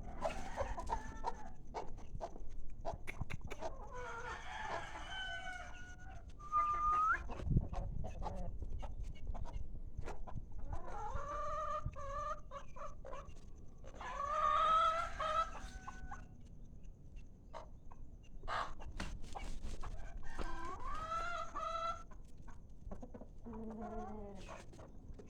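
Chickens clucking and a rooster crowing: several long calls with pauses between them, over scattered sharp clicks.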